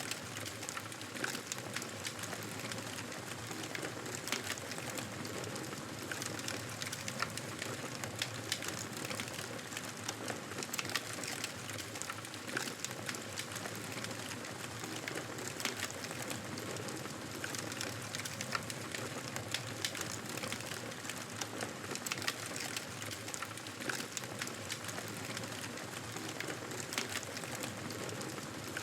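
Wood fire burning in a fireplace: a steady hiss of flames with many sharp crackles and pops at irregular intervals.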